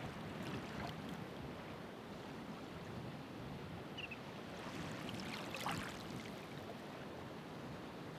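Ocean waves washing ashore in a steady rush, with a brighter fizzing splash about five and a half seconds in.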